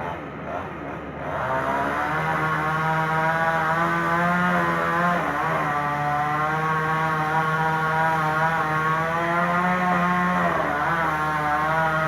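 Petrol chainsaw revving up about a second in and then running at high speed with a steady, high engine note, its pitch sagging briefly twice.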